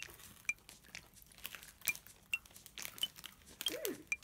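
Crisp thin strawberry biscuit stick being bitten and chewed: a string of irregular sharp crunches.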